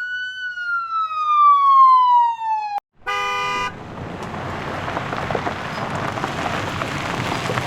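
A siren wail that rises briefly and then falls slowly before cutting off suddenly, followed by a short horn beep, then a steady noisy rumble and hiss of a vehicle.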